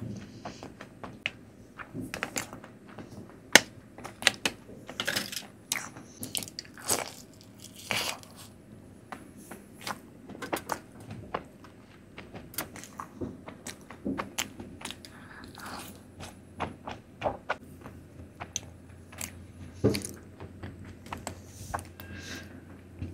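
A person chewing and biting Indian sweets close to the microphone, with many short, irregular mouth clicks and smacks.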